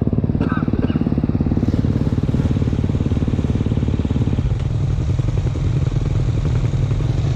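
Small engine running steadily with fast, even firing pulses; its note drops to a lower pitch about four and a half seconds in.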